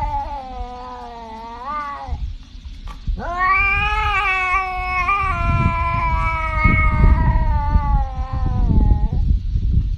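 A cat yowling in long drawn-out calls: one ends about two seconds in with a rise in pitch, and another starts about three seconds in and runs about six seconds, rising at first then slowly falling. A low rumble runs underneath.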